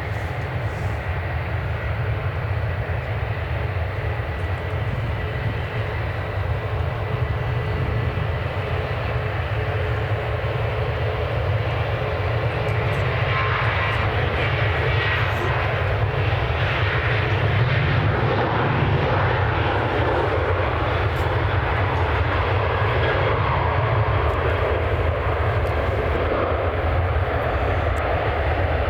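Jet airliner engines running, a steady roar with a faint whine, growing louder about halfway through and staying loud.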